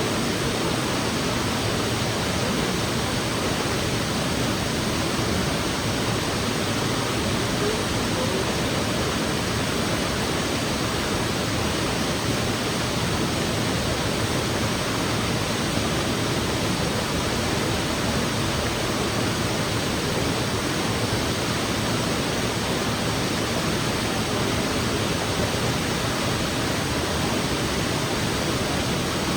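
Waterfall pouring into a creek pool: a steady, unbroken rush of falling water close to the microphone.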